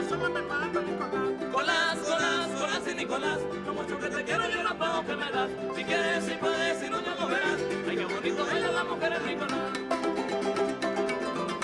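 Son jarocho string ensemble playing live, with quick strummed and plucked strings throughout and a wavering high melodic line in two stretches.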